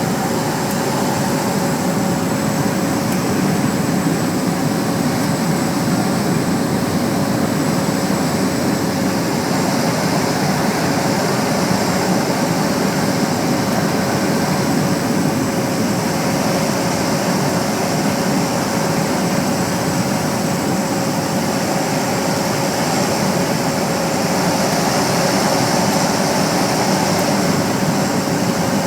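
Cessna Caravan's single Pratt & Whitney PT6A turboprop heard inside the cabin on the landing approach: a steady propeller and engine drone with a constant turbine whine over it.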